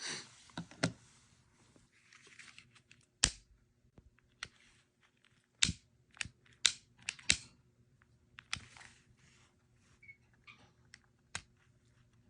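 Irregular sharp clicks and short rustles of a plastic gas lighter and its small parts being handled, about a dozen clicks with a few louder snaps, over a faint steady electrical hum.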